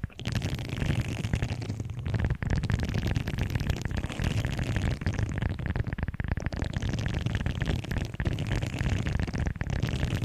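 Objects handled close to the microphone: continuous dense crackling and rustling full of small clicks, with a low rumble underneath.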